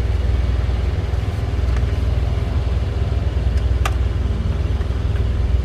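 Semi truck's diesel engine idling steadily with a low rumble, and a single sharp click about four seconds in.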